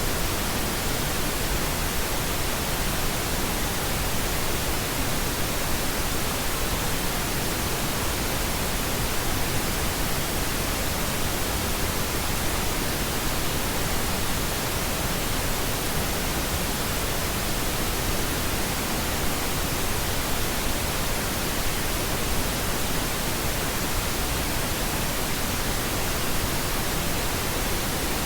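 Steady pink noise: an even, unchanging hiss spread across all pitches, a sleep-masking sound.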